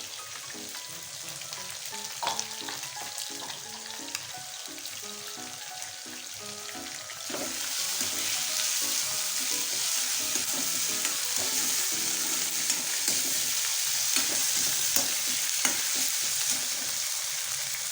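Chicken diamond pieces deep-frying in hot oil, sizzling steadily, with scattered clicks of a utensil stirring them. The sizzle grows louder about seven seconds in.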